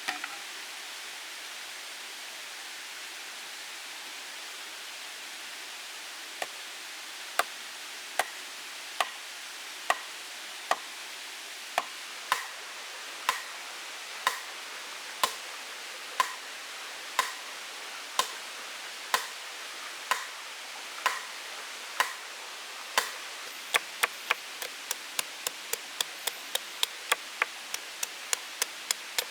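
Chopping strikes, one about every second at first and quickening to two or three a second near the end, over a steady hiss.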